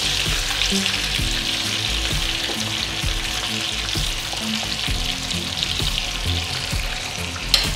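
Breaded pork schnitzels shallow-frying in plenty of oil in a frying pan: a steady, dense sizzle, with a single sharp click near the end.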